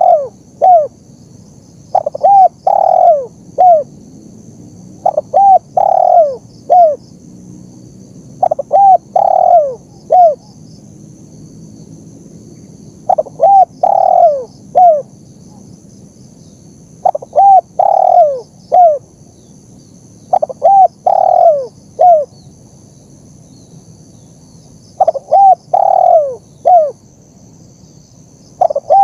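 Spotted dove (tekukur) cooing. It repeats a short phrase of a few coo notes, with a longer, louder note near the middle and a falling note at the end, about every three to four seconds.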